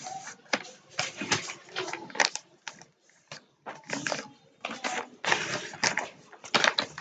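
Sheet of origami paper being handled and folded, with irregular crackling rustles and creases, pausing briefly about halfway through.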